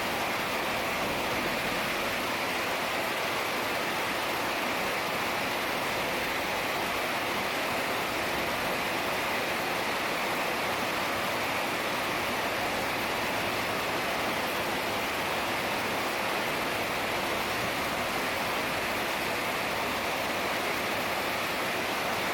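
Heavy rain falling steadily, an even hiss with no let-up or single drops standing out.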